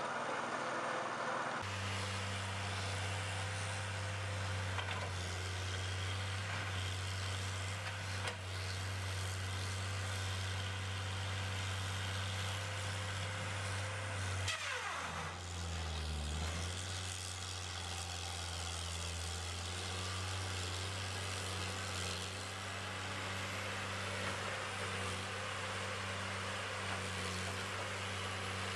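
An engine running steadily with a low, even hum; about halfway through a whine briefly falls in pitch.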